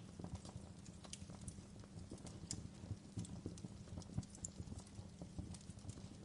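Wood fire crackling: irregular small pops and snaps over a low steady rumble, with a sharper pop about four seconds in.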